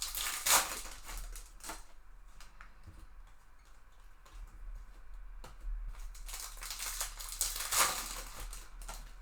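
Trading cards and foil pack wrappers being handled: crinkling, rustling swishes and light clicks as packs are opened and cards slid through the hands, loudest about half a second in and again near the end.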